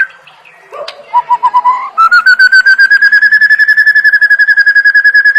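White-rumped shama (murai batu) singing: a short run of quick whistled notes climbing in pitch, then, about two seconds in, a long rapid trill of even whistled notes, roughly a dozen a second, rising slightly and then holding steady.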